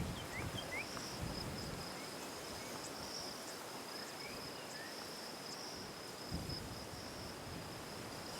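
Insects trilling, a steady high-pitched note that swells and fades every second or so over a soft hiss. A few short rising chirps are scattered through it, and there are a couple of soft low thumps.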